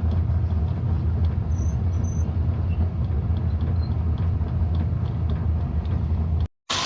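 Steady low engine drone with no change in pitch. It cuts off abruptly near the end.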